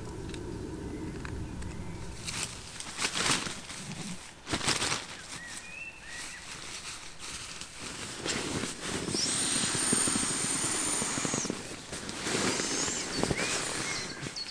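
Rustling and knocking of camp gear being handled, with a few sharp knocks early on and a long rustle from about nine to eleven and a half seconds in.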